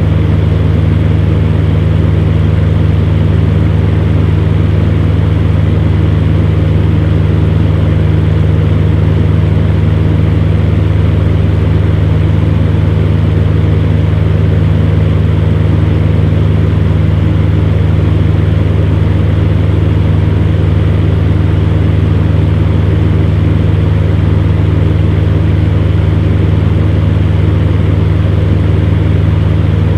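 Fan heater running steadily: a constant low motor hum under an even rush of blown air.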